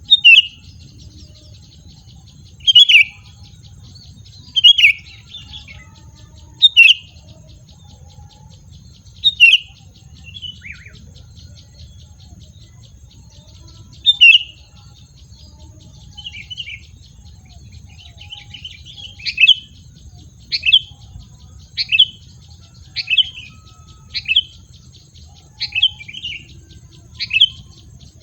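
A wild bird giving short, sharp calls that slide down in pitch. The calls repeat every two seconds or so and come faster and more regularly in the second half. A steady, high insect hum runs underneath.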